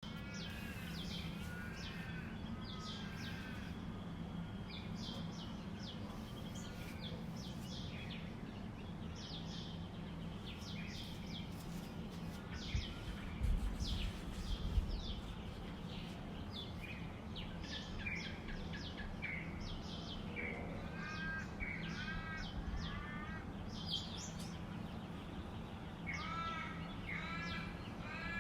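Dawn chorus: several birds calling and singing, with many short chirps overlapping and repeated arching calls near the start and again in the last few seconds. A steady low hum runs underneath, and a brief low rumble comes about halfway through.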